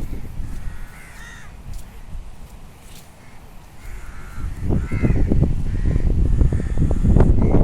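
Crows cawing repeatedly, over a low rumble that grows much louder about halfway through.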